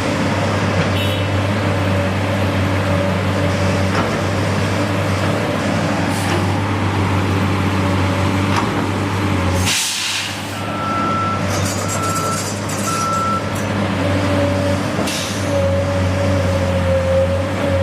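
A heavy vehicle's engine running steadily, with a sharp hiss of air about ten seconds in, then three short beeps and another brief hiss.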